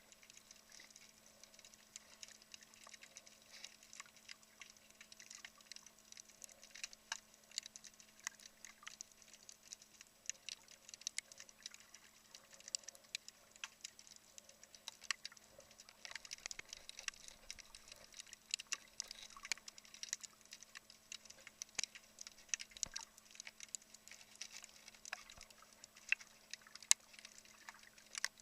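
Underwater ambience: a dense, irregular crackle of tiny sharp clicks, over a faint steady hum.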